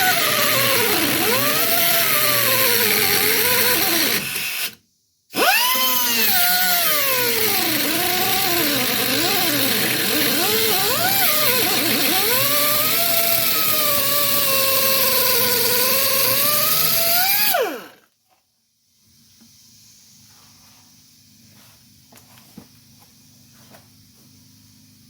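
A cutoff wheel grinds through the rusted sheet metal of a truck's cab corner. Its whine rises and falls as the wheel bites and eases in the cut. It cuts out briefly about five seconds in, stops about three-quarters of the way through, and only a faint hum with a few small clicks is left.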